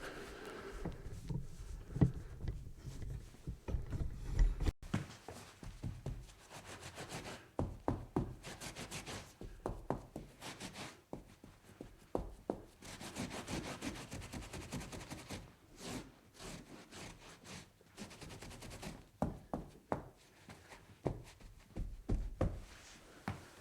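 Wiping and scrubbing a table by hand: uneven rubbing strokes across the surface, with occasional knocks.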